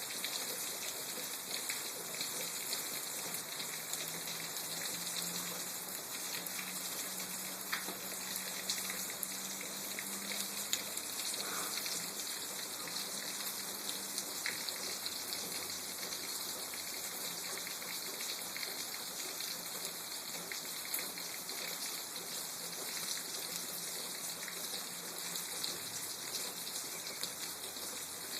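Steady rain from a thunderstorm falling, with many small drop hits.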